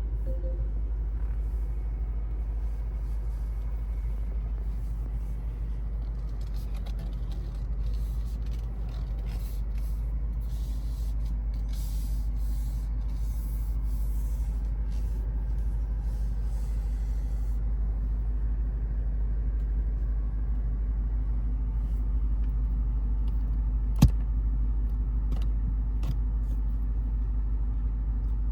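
The 2024 Lexus IS 500 F Sport's 5.0-litre V8 running on the move, a steady low rumble. One sharp click comes about 24 seconds in.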